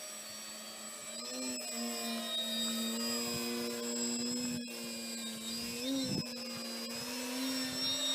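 Electric propeller motors of a small radio-controlled aircraft whining steadily, the pitch shifting slightly a couple of times.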